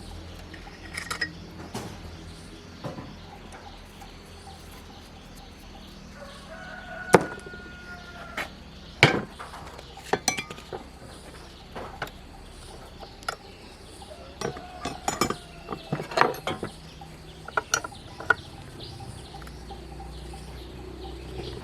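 Metal tools and parts clinking and knocking irregularly as a gasoline water pump is worked on, with chickens clucking and a rooster crowing in the background.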